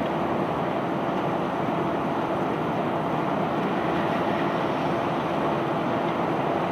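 Heavy unloading machinery running steadily: an even mechanical drone with a faint steady hum, unchanging throughout and without distinct impacts.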